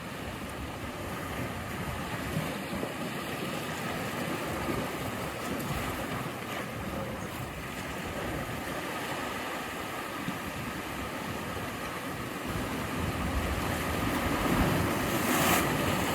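Sea waves washing in steadily, building up and breaking louder near the end.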